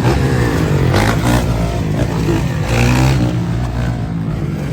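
Motocross dirt bike engine running and revving up and down, with a broad hiss over it.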